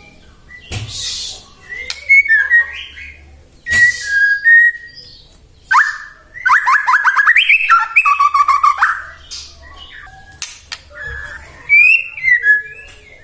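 White-rumped shama (murai batu) in full song: loud, clear whistled phrases broken by a harsh rasping note about a second in, and a fast run of repeated notes in the middle.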